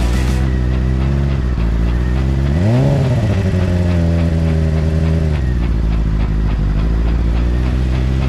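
Yamaha Drag Star XVS1100's V-twin engine running on the road. It revs up sharply about three seconds in, holds a higher pitch for a couple of seconds, then drops back to a lower steady note.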